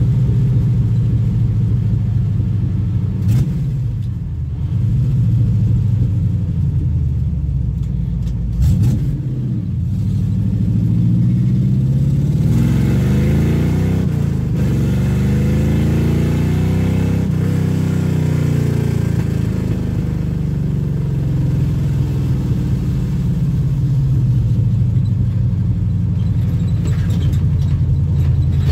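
Chevrolet 307 small-block V8 of a 1969 Camaro, heard from inside the car while driving, revving up through the middle and settling back, with two sharp knocks in the first ten seconds. The engine is running with stuck lifters, banging like a screen door in the owner's words.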